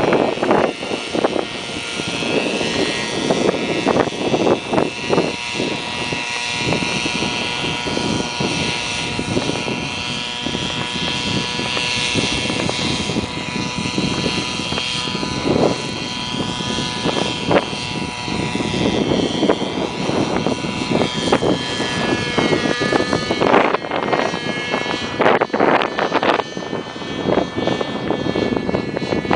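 Hirobo Shuttle radio-controlled helicopter's small glow-fuel engine running steadily in flight, its pitch wavering up and down near the end. Strong wind buffets the microphone in gusts.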